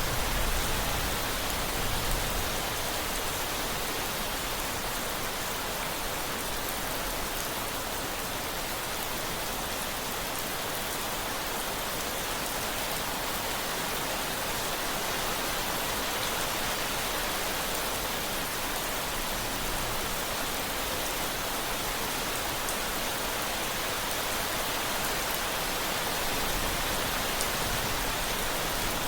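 Steady rain falling, an even hiss of drops on surfaces, with a slight low rumble near the start and again near the end.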